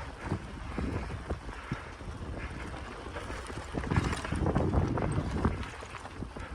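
Bicycle riding over a rough forest track: wind rumbling on the microphone with frequent knocks and rattles, heaviest from about four to five and a half seconds in.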